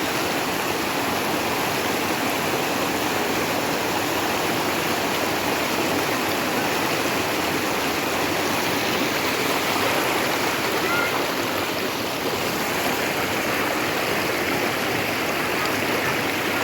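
Waterfall and rocky stream water rushing, a steady, unbroken rush of water.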